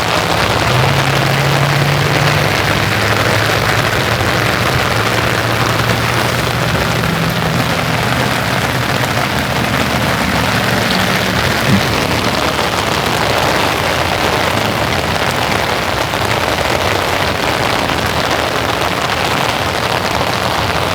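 Steady rain falling and pattering on surfaces all around. A faint low hum sits under it through the first half, and a single short knock comes about twelve seconds in.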